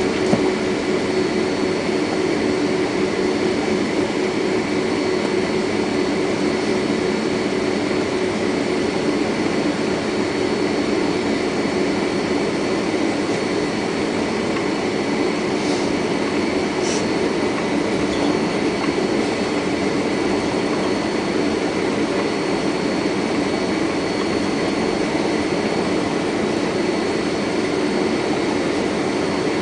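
Steady cabin noise inside a Boeing 767-400 taxiing after landing: the jet engines at idle and the air-conditioning, an even rush with a few steady whining tones.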